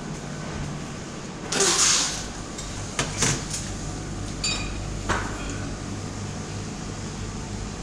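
Indoor handling sounds over a steady low hum: a brief scraping slide about one and a half seconds in, then a few sharp clicks and knocks.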